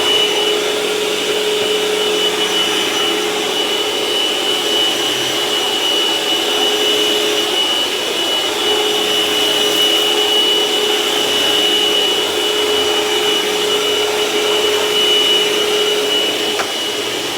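Dirt Devil Envision Turbo upright vacuum running steadily over carpet, a steady whine over the motor's rush, with its brush roll touching the carpet.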